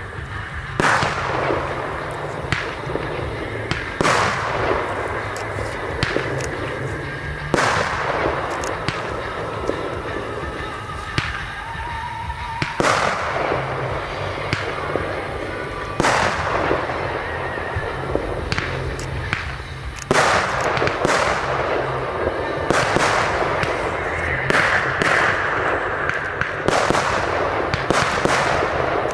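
Fireworks display: a shell bursts with a sharp bang every few seconds, with crackling between the bangs.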